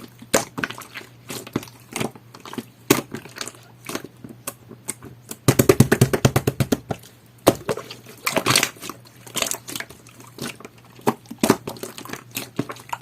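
Green jelly-textured glitter slime being squeezed and poked by hand, making sticky clicks and pops. About halfway through there is a fast run of clicks, about ten a second for a second and a half, then the slower irregular popping resumes.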